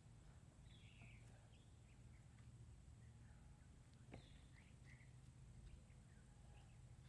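Near silence outdoors, with faint scattered bird chirps and a low steady background hum.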